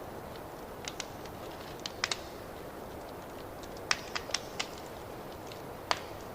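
Wood fire in a fireplace crackling: irregular sharp pops and snaps over a steady hiss.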